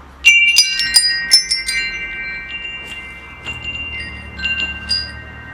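Metal wind chimes struck in a quick cluster of clangs in the first second and a half, their tones ringing on and overlapping, followed by a few scattered strikes later.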